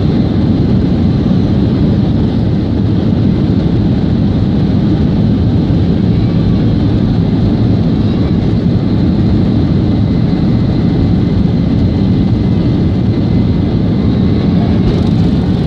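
Steady, loud cabin noise of a Boeing 737-800 under way: the CFM56 jet engines and rushing airflow, heard from inside the cabin over the wing. It is a deep, even rumble with a faint high whine.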